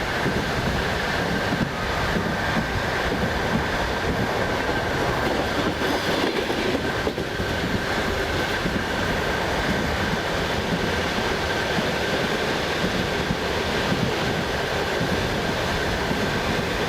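Passenger train running steadily, heard from inside the carriage: an even rumble of wheels on the rails with a thin, steady whine above it.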